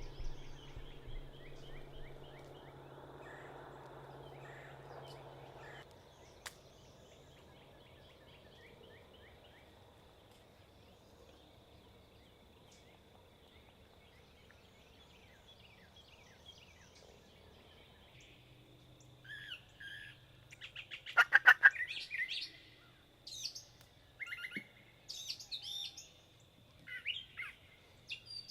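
Wild birds calling: scattered high chirps and whistled notes, with a loud, rapidly pulsing rattle of a call about three-quarters of the way through. Before that, faint chirping over a low hum, then a long near-quiet stretch.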